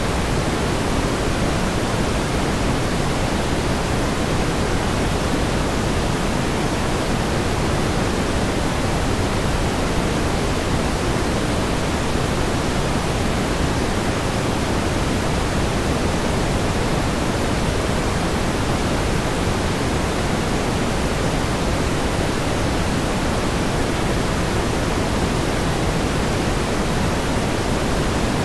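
Steady pink noise: an even, unchanging hiss with more weight in the low end, with no events or changes.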